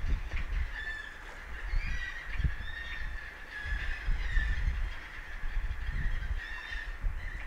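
Repeated short honking bird calls, several a second, over an uneven low rumble of wind buffeting the microphone.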